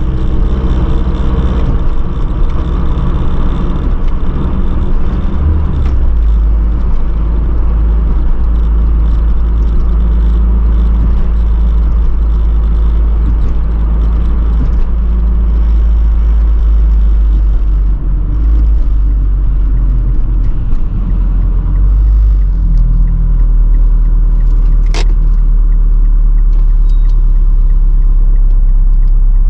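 Low, steady rumble of a turbocharged Mazdaspeed 3's 2.3-litre four-cylinder running, with no revving or acceleration. A brief high, rising chirp comes about 25 seconds in.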